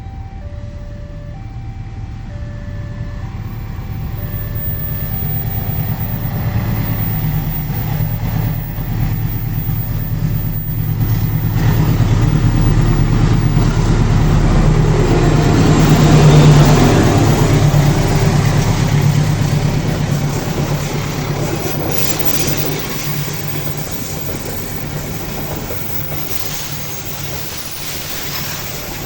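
A diesel-hauled train passing close by. The locomotive's engine hum and the rolling noise of wheels on rail build up, peak a little over halfway through as it goes by, then fade as the carriages roll away. A repeating electronic beep, about once a second, is heard until the train noise drowns it.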